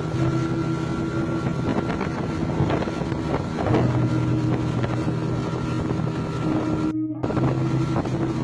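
Boat engine running steadily under way, with wind buffeting the microphone; the sound cuts out for a moment about seven seconds in.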